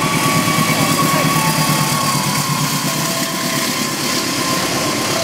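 Diesel locomotive of a container freight train passing close by. The engine runs with a fast pulsing rumble, and the wagons roll past under it. A few thin, steady high tones ring over the rumble and shift in pitch now and then.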